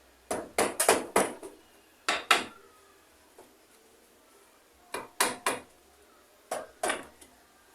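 Hammer blows driving nails into wooden floorboards, in short runs of two to five strikes with pauses between: a quick run in the first second and a half, a pair near two seconds, three strikes about five seconds in and a pair near the end.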